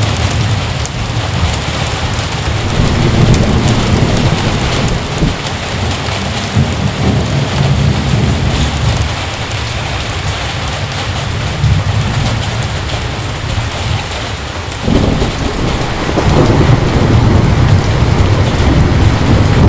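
Heavy rain falling steadily with rolling thunder, and a sudden louder crash of thunder about fifteen seconds in that keeps rumbling.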